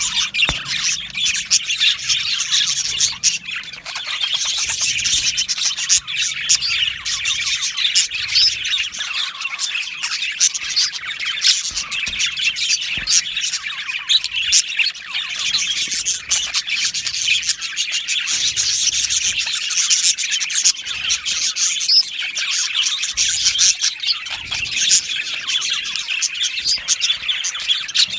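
A flock of budgerigars chirping and chattering, many birds at once in dense overlapping warbles and short calls.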